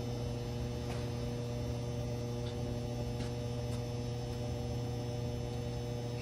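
Fadal 3016 vertical machining center standing powered up, giving a steady electrical hum with a few faint ticks.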